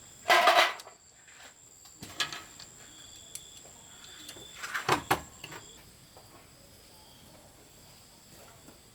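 Three short noisy scrapes or knocks of something being handled, the loudest about half a second in and others near two and five seconds. Under them runs a steady high-pitched insect drone that fades out about six seconds in.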